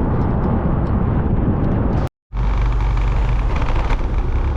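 Motorbike engine running and wind rushing over the microphone while riding along a road. About two seconds in, the sound cuts out for a moment, then the engine and wind carry on with a steadier hum.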